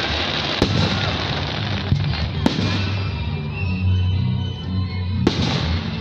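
Fireworks going off: four sharp bangs, about half a second in, near two and two and a half seconds, and again near the end, over music with a steady low bass.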